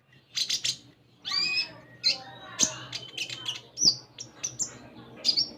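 A konin songbird singing a fast, varied song of short chirps, upward-sweeping whistles and sharp clicks.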